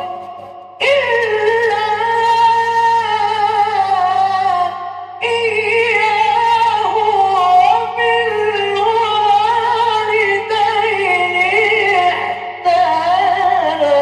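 Male Quran reciter chanting in the melodic mujawwad style: three long, ornamented vocal phrases with brief breath pauses about five seconds in and near the end. A steady low electrical hum runs beneath.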